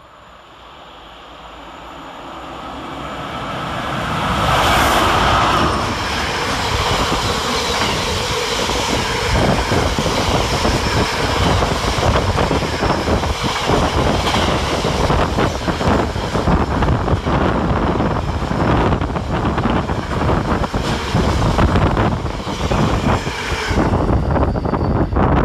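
Fast container freight train hauled by two Class 90 electric locomotives passing through at speed. It approaches and grows louder, is loudest as the locomotives go by about five seconds in, then a long run of container wagons rattles past with rapid clickety-clack over the rail joints.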